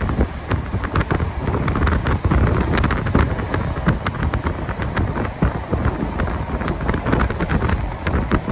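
Wind buffeting the microphone: a loud, continuous rumbling rush with uneven gusts.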